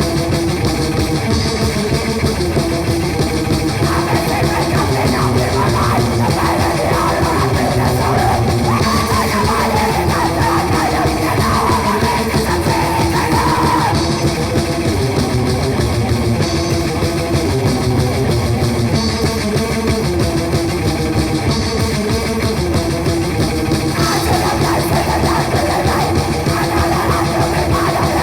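Raw, noisy grindcore track: heavily distorted electric guitar riffing over bass and fast, dense drums, played loud without a break.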